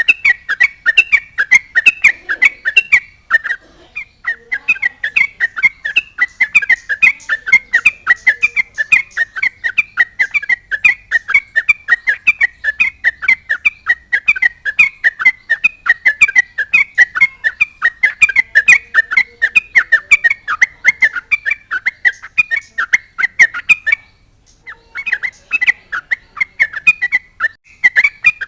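Yellow-vented bulbul (trucukan) singing in full, loud voice: a fast, unbroken chatter of short bubbly whistled notes, several a second. The song breaks off briefly about three seconds in and again for under a second near the end.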